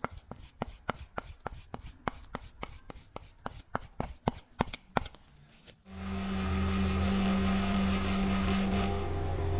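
A run of sharp, irregular taps or clicks, about four a second. About six seconds in, an electric workshop power tool starts up and runs with a steady hum.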